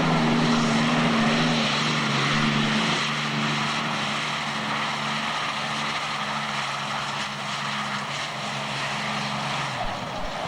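Modified-class pulling tractor running at full power down the track, a loud steady engine sound that slowly grows a little quieter. The engine tone drops away shortly before the end.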